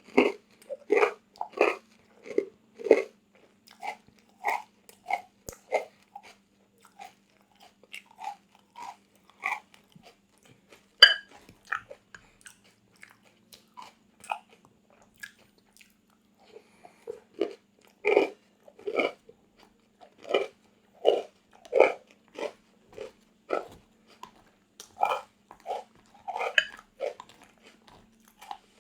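Close-miked crunchy chewing: a person biting and chewing crisp food, with steady chews about one or two a second, a short pause partway through, and one sharp click about eleven seconds in.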